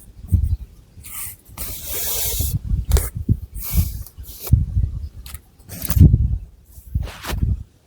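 Long fingernails scratching through thick hair and over the scalp: irregular scratchy strokes about once a second, one longer stroke about two seconds in, with dull low rustling from hair moving close to the microphone.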